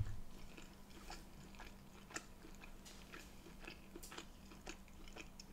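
Close-miked chewing of a mouthful of food, with faint, irregular wet mouth clicks.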